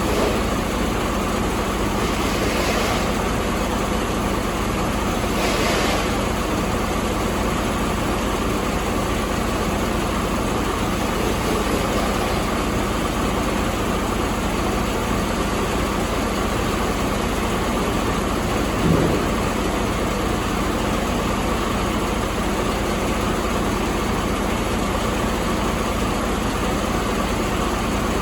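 Detroit DD15 inline-six diesel engine idling steadily. Two short hisses come in the first six seconds, and a brief thump about two-thirds of the way through.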